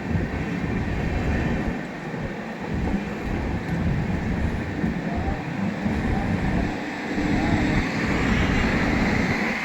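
Passenger train running: a steady rumble and rush of noise with an uneven low throb.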